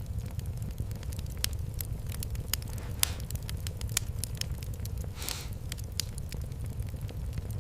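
Wood fire in a fireplace crackling over a steady low rumble, with scattered sharp pops and two louder pops about three and five seconds in.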